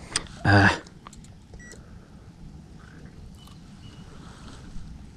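Short faint electronic beeps, such as a digital fish scale gives while weighing a bass, one about two seconds in. A click and a brief loud pitched grunt come near the start.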